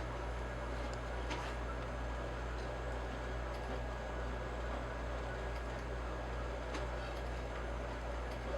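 Steady low hum under a constant hiss, with a few faint clicks.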